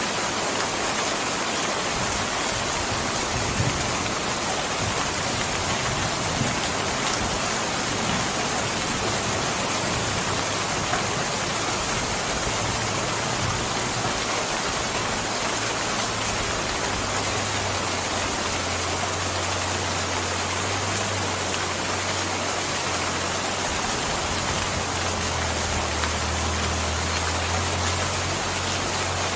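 Steady rain falling, an even continuous hiss. A low rumble grows underneath it in the second half.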